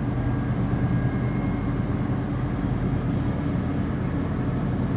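South Western Railway Class 458 electric multiple unit running at speed, heard inside the carriage: a steady rumble of wheels on rail and running gear, with a faint high whine.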